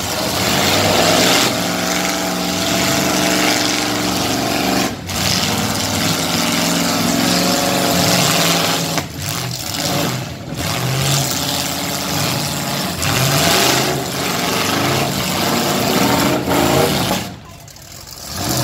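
Several big car and truck engines running loudly at once and revving, their pitch rising and falling, with brief dropouts in the sound a few times and a longer dip near the end.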